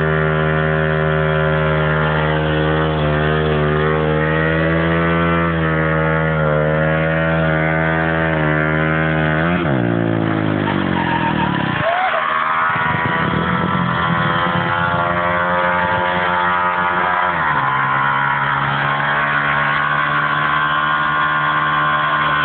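Motorcycle engine running at steady revs, its pitch dropping sharply about ten seconds in, running lower and rougher for several seconds, then picking back up to steady revs.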